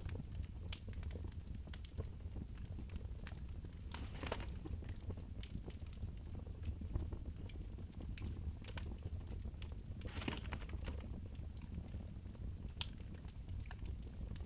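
Wood fire burning in a fireplace, crackling with many irregular small snaps over a steady low rumble, with two longer hissing flare-ups about 4 and 10 seconds in.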